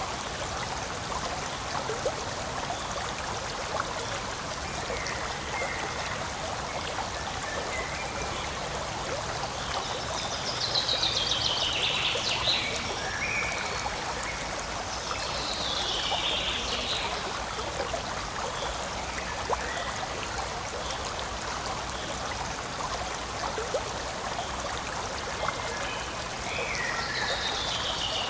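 Forest stream flowing steadily, a continuous trickling rush of water. High, falling calls break in over it three times: about ten seconds in, again a few seconds later, and near the end.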